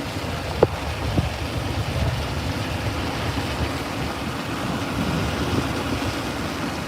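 Steady road and engine noise inside a moving car, with a single short click about half a second in.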